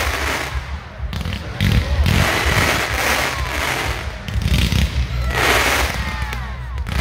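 Ground-level fireworks firing showers of sparks, heard as several loud swells of hissing a second or more apart over a low rumble.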